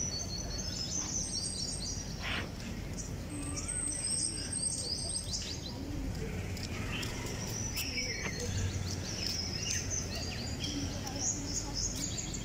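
Birds chirping over and over in short, high calls and trills, over a steady low background rumble.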